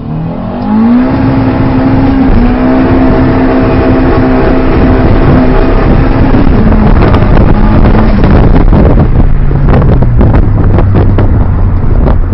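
Turbocharged Honda B16A2 1.6-litre four-cylinder engine heard from inside the car: its note climbs in the first second, holds steady for a few seconds, then drops in steps in the second half. A run of rapid crackling sits over the engine in the second half.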